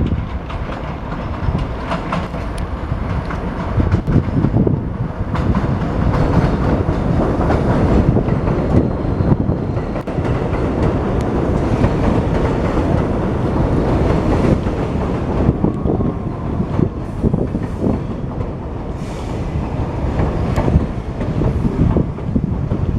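New York City subway train running through the elevated 18 Av station on the BMT West End Line, with the wheels clattering steadily over the rail joints.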